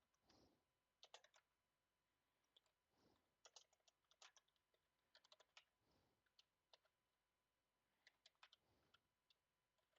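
Faint typing on a computer keyboard, in several short bursts of key clicks, with soft breaths between them.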